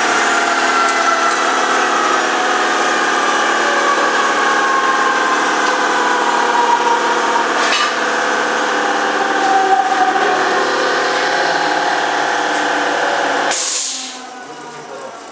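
Power tool machining an aluminium profile: a loud, steady, ringing whine with several tones drifting slowly lower, cut off suddenly near the end.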